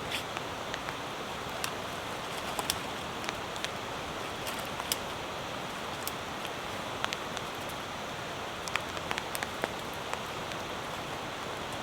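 Steady rain, with many sharp, irregular ticks of drops striking a nearby surface.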